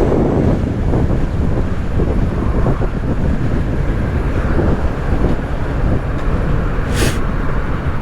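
Wind rushing over the microphone of a moving Kawasaki Z650 motorcycle, a steady low rumble with engine and road noise under it. There is a brief hiss about seven seconds in.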